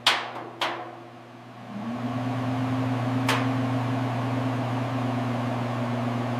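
Two sharp knocks, then a small electric power-tool motor spins up and runs with a steady hum.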